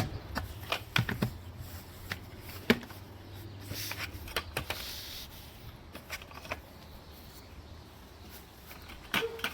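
A series of irregular sharp clicks and knocks, with a faint low rumble under the first couple of seconds and a short hiss about halfway through.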